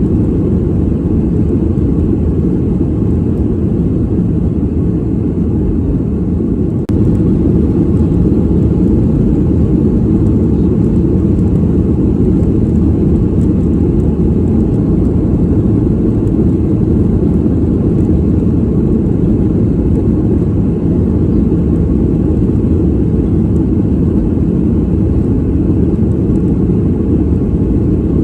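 Airplane cabin noise from a passenger seat in flight: a steady, deep rumble of engine and airflow noise. The level dips briefly and steps back up slightly about seven seconds in.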